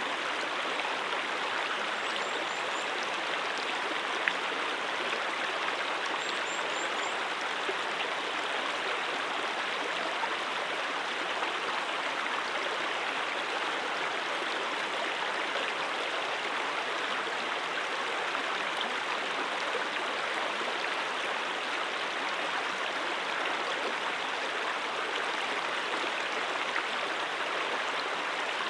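Mountain stream flowing steadily, an even rush of water, with one sharp tick about four seconds in.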